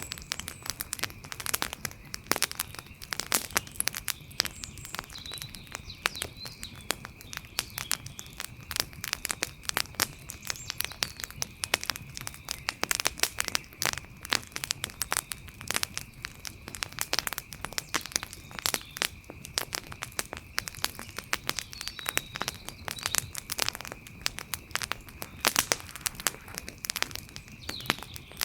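Campfire crackling: an irregular, dense run of sharp pops and snaps, over a faint steady high tone.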